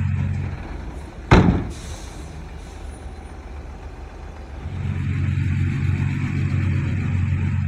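Heavy diesel engines of a bulldozer and dump truck running, dropping back, then rising to a steady drone again about five seconds in. About a second in comes one sharp, loud bang or blast of air, followed by a brief hiss.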